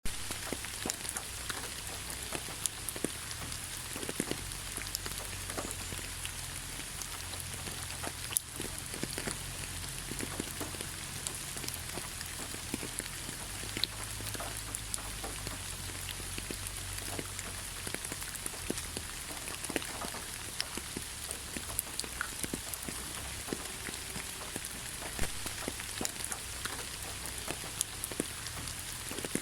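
Steady light rain falling on leaves, with many separate drops ticking sharply over a constant hiss and a low, steady rumble underneath.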